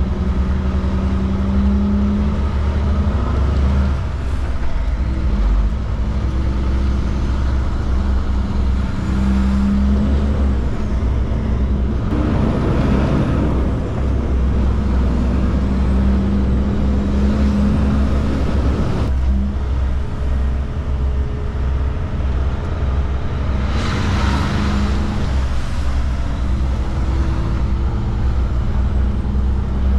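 Kenworth K200 cabover's Cummins diesel engine heard from inside the cab while the truck pulls away, its pitch climbing and then dropping at each gear change. Two louder rushing swells of noise pass about 12 and 24 seconds in.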